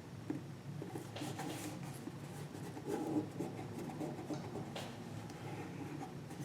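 Glue stick rubbing and paper rustling and scraping as a layer of paper is glued down, in short irregular strokes over a low steady hum.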